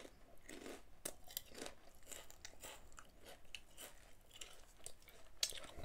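A person chewing a mouthful of crisp Simba potato chips: faint, irregular crunches.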